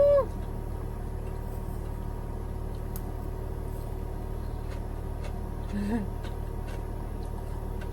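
Steady low hum of a 12V air conditioner running inside a camper van, with a few faint light clicks over it.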